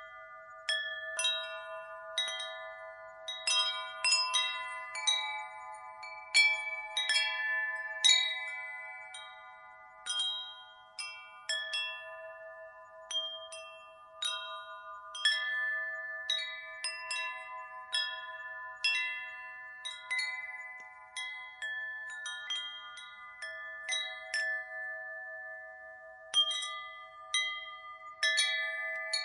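Wind chime stirred by the wind, its tones struck at irregular moments, often several close together, and ringing on, overlapping as they fade.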